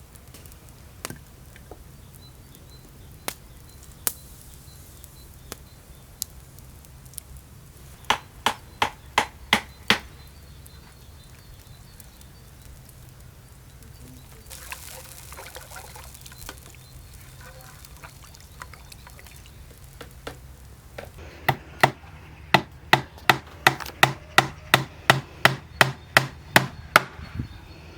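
Knife chopping food on a wooden cutting board in quick, even strokes, roughly three a second. There is a short run of about six strokes around eight seconds in and a longer run of about fifteen from about twenty-one seconds on, with a few single knocks between.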